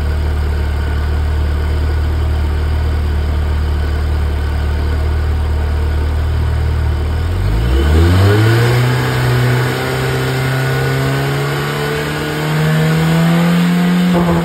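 Car engine running at a steady speed, then revved up quickly about halfway through and held at high revs, its pitch still climbing slowly toward about 5500 rpm. Right at the end the first backfire pops start to break in.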